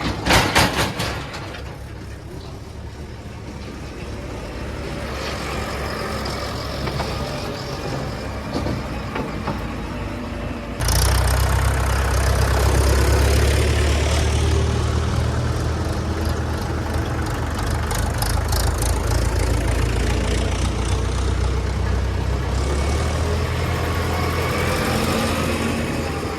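Heavy diesel engine running steadily with a low hum. A few sharp knocks come at the very start, and about eleven seconds in the engine suddenly becomes much louder and closer.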